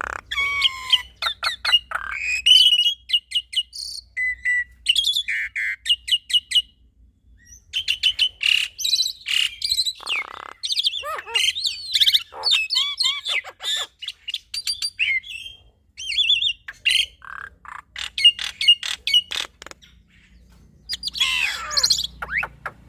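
A male black-winged myna and a female Javan myna singing in a long, varied duet of whistled rising and falling notes, chirps and rapid runs of clicking notes, with brief pauses about seven seconds in and again near the end.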